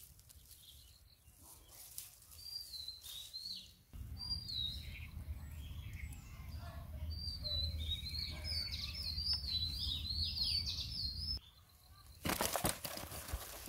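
Small birds chirping over and over in short high notes, over a low steady rumble. A loud noisy burst about a second long comes near the end.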